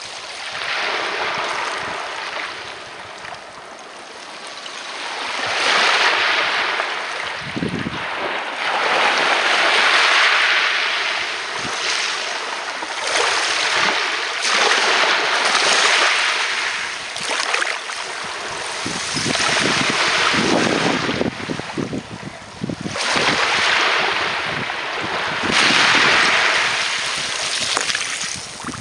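Sea waves breaking and washing up onto a beach, the surf swelling and ebbing every few seconds.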